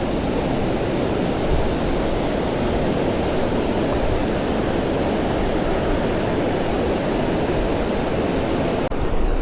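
Steady rushing of river water, an even noise without pauses. A short knock comes near the end.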